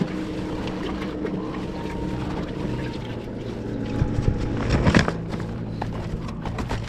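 An engine running steadily, with a few knocks about four and five seconds in.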